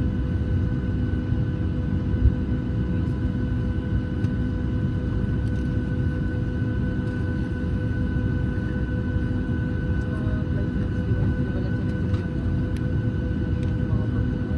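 Boeing 737 cabin noise with the doors closed: a steady low rumble with a constant high whine over it, and a single soft thump about two seconds in.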